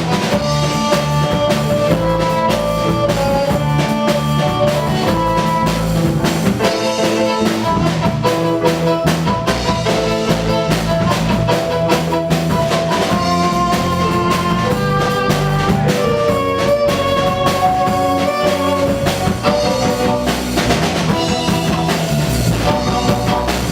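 Live band playing an instrumental passage: drum kit and guitar under a melody held in long notes that step up and down in pitch.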